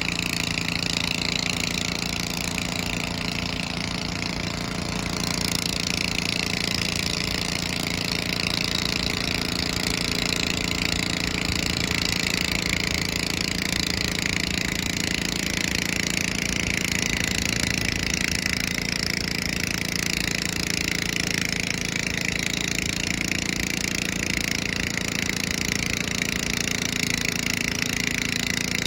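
Garden pulling tractor engine running steadily with a rapid, pulsing exhaust note, holding an even level throughout apart from a brief dip about four seconds in.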